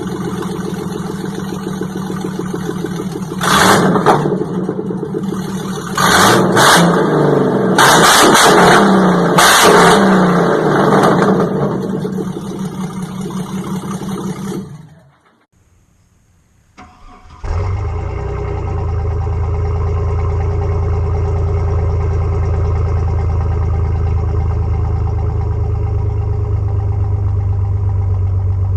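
Vehicle engines: one engine running with several short revs over the first twelve seconds or so, then after a brief cut to near silence a second engine idling steadily with a deep, even rumble. The clips are of a truck and a Japanese sports car.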